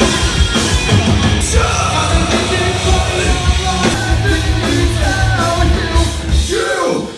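Loud rock band playing, with a singer's yelled vocals over heavy bass and drums.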